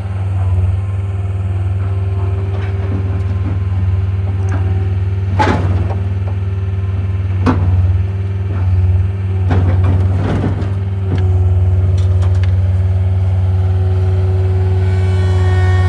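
A heavy vehicle's engine running steadily, with a few sharp metal knocks about a third and two-thirds of the way through. A higher, steady tone comes in near the end.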